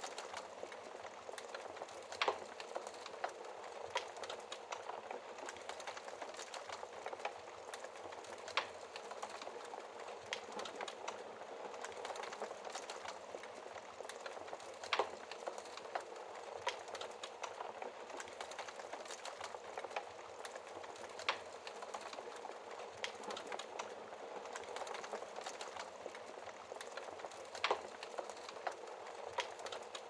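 Wood fire crackling steadily in a fireplace, with a handful of louder, sharp pops scattered through it.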